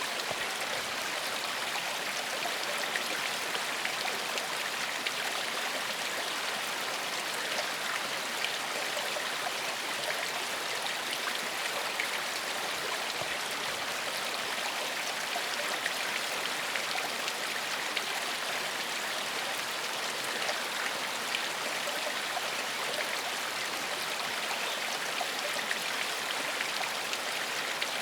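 Gentle forest stream flowing over stones, a steady rushing babble with small splashes and no change in level.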